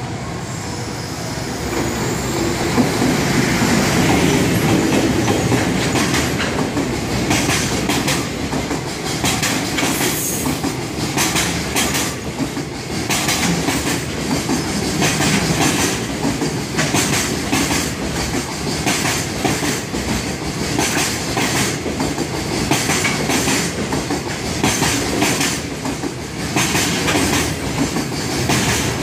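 Freight train passing close by: a swell of running noise in the first few seconds, then a long string of freight wagons clattering over rail joints in a steady clickety-clack to the end.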